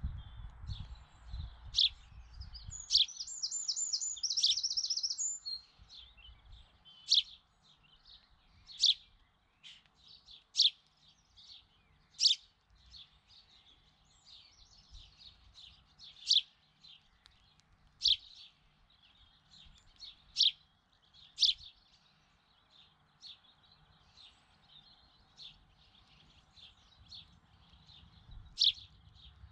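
Small birds chirping: single short high chirps repeated every second or two, with a rapid high trill about three seconds in. A low rumble sits under the first few seconds.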